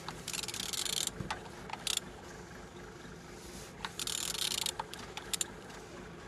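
Ratchet wrench clicking in two quick runs, one near the start and one about four seconds in, with a few single clicks and knocks between, as an engine's crankshaft is turned over by hand. The engine turns over freely.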